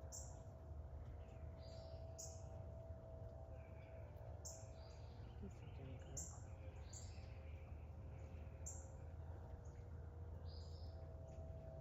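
Small songbirds chirping: short, high calls repeated every second or two, faint over a steady low background hum.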